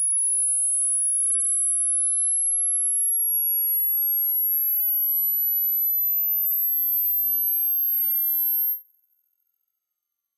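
A single electronically generated pure tone, very high-pitched and shrill, slowly rising in pitch, then cutting off suddenly near the end, leaving silence.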